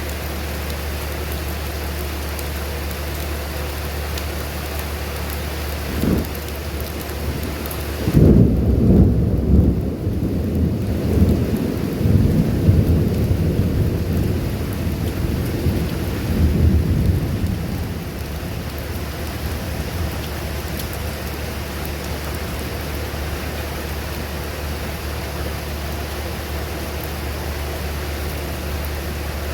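Steady rain with thunder: a short low rumble a few seconds in, then a long rolling peal of thunder lasting about ten seconds with several swells, loudest at its start, fading back to the rain.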